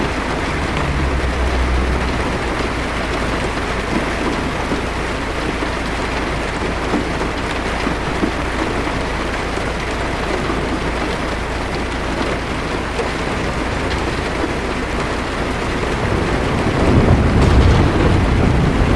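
Rain hitting a car's windshield, heard from inside the car, a steady even hiss. Low thunder rumbles briefly about a second in, and again more strongly near the end.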